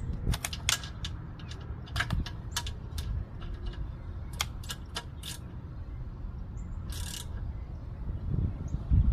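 Socket ratchet clicking in short runs as it is swung back and forth, tightening a bolt on the van after the oil drain, over a steady low outdoor rumble.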